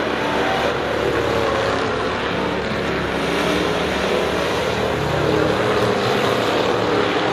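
Several stock race cars running laps together, a steady, loud engine drone with pitches that rise and fall slightly as the cars pass and change speed.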